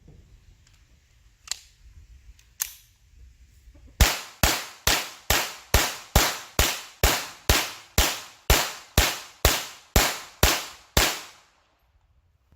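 A .22 LR semi-automatic pistol, a Taurus TX22, fired rapidly: a steady string of about 17 sharp shots over some seven seconds, a bit over two a second, after two faint clicks.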